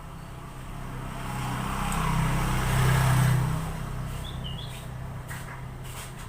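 A motor vehicle passing by: its engine hum and road noise swell to a peak about three seconds in, then fade. A bird gives a brief chirp about four and a half seconds in.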